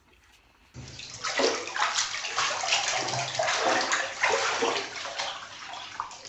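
Water sloshing and splashing, starting suddenly about a second in and going on in uneven surges.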